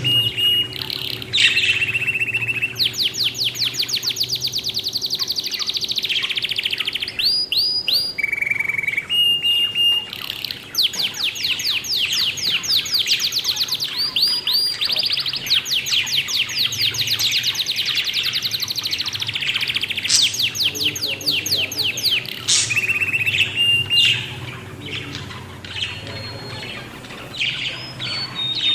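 Small birds chirping, with fast runs of rapidly repeated high notes between short steady whistled notes, quieter for a couple of seconds near the end.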